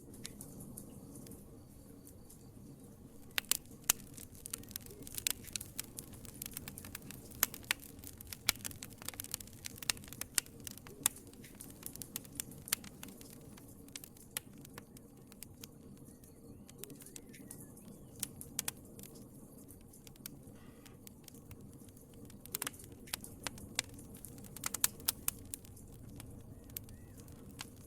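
Wood fire in a fireplace crackling, with irregular sharp pops over a low, steady rumble of the flames. The pops come in flurries, with quieter stretches between them.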